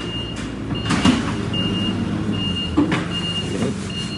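A vehicle's reversing alarm beeping steadily at one high pitch, about twice a second, over the low steady running of an engine, with a couple of sharp knocks.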